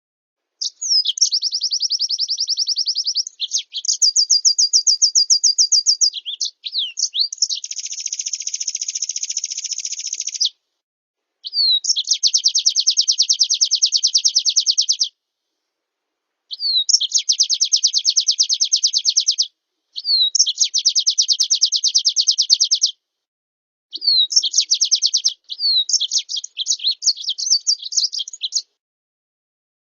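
Songbird masteran recording of champion pleci (white-eye) song, filled with canary and blackthroat phrases: a string of high, rapid trills of a few seconds each, several opening with a quick down-sweep. Short gaps of dead silence separate the trills.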